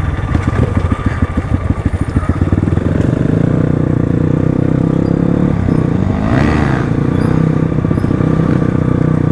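Crossfire RM250 dirt bike's single-cylinder engine running under way: fast, even pulsing at low revs for the first three seconds, then a steady, higher engine note. A brief swell of noise comes about six seconds in.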